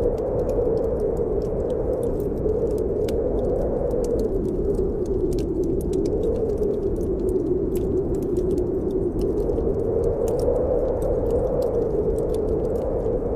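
Snowstorm wind blowing in a steady low rush whose pitch slowly wavers up and down, with a fireplace fire crackling in many small scattered pops.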